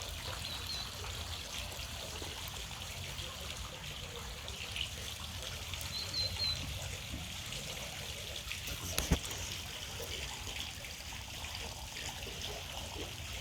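Steady soft hiss like trickling water, with a single sharp click about nine seconds in.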